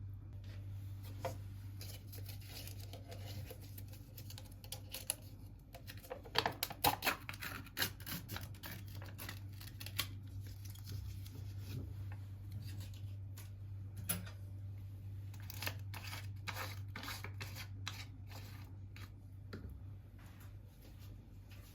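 Hands unboxing a parcel: scattered clicks, rustles and snips of packaging being cut and handled, busiest a few seconds in, over a steady low hum.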